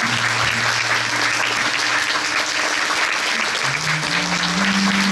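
Audience applauding steadily, with low held music notes underneath that step up in pitch about three and a half seconds in.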